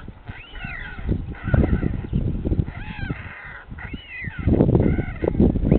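White stork chicks in the nest giving repeated mewing begging calls, each rising then falling, about five in all. Loud low rumbling bursts come in between the calls.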